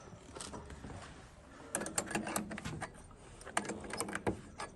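Irregular light metallic clicks and rattles, thickest from about two seconds in, as a sailboat's shrouds are being loosened at their fittings.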